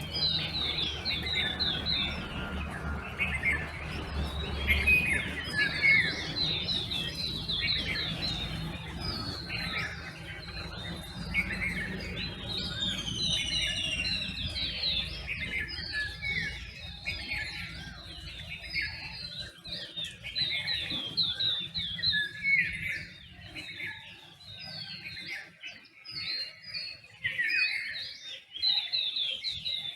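Dawn chorus of many birds chirping, trilling and whistling at once, with a few clear sliding whistles about halfway through. A low rumble sits underneath and fades out near the end.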